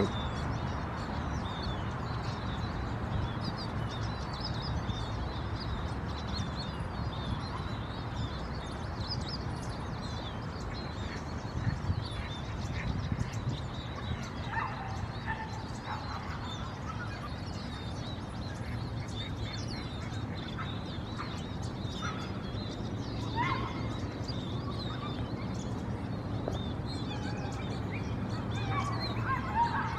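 Small birds chirping and twittering, with a few lower calls about halfway through and again near the end, over a steady low rumble.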